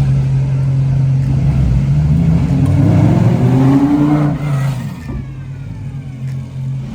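Lamborghini engine running with a steady low drone, revving up and back down about two to four seconds in, then settling lower and quieter.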